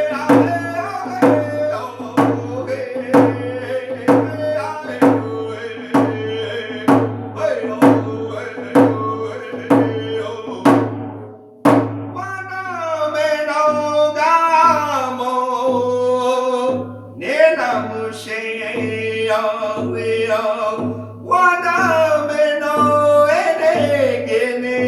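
A man singing an Ojibwe song over an even drumbeat of about three strikes every two seconds. About halfway through, the sharp strikes give way to long, wavering held notes over a softer beat.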